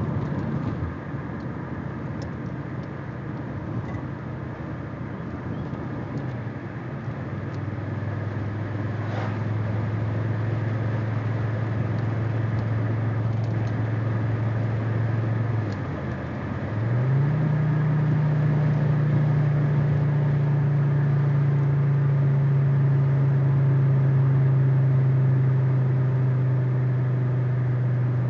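Audi 80 B4 2.3E's inline five-cylinder engine running through a Fox aftermarket exhaust, holding a steady note that dips briefly about sixteen seconds in, then rises and holds at a higher steady pitch.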